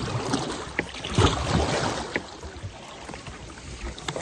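Water splashing and sloshing around a kayak being worked through a fallen-tree obstacle, with a few light knocks; loudest just after a second in.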